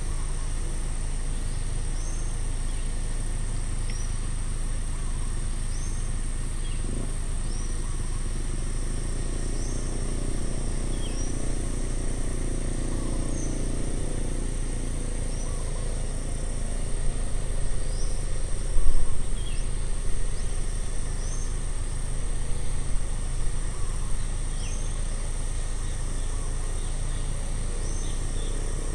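Outdoor nature ambience: a steady high-pitched insect drone, with a bird giving short rising chirps every second or two. Underneath runs a steady low rumble that swells in the middle, and there are a few louder bumps later on.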